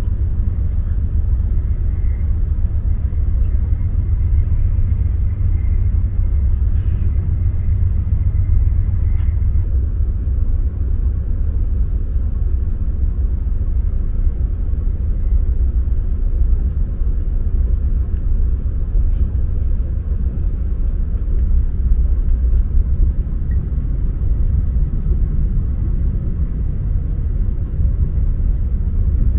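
VIA Rail passenger train in motion, heard from inside the car as a steady, even low rumble. For the first nine seconds or so a faint high thin tone sits above it.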